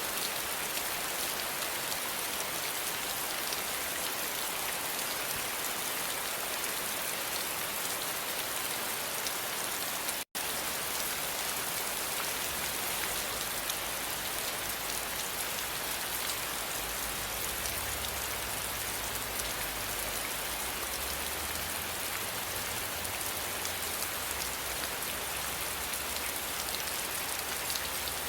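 Steady rain falling on a surface, an even hiss of many drops. It cuts out for a split second about ten seconds in, and after that a low rumble runs under it.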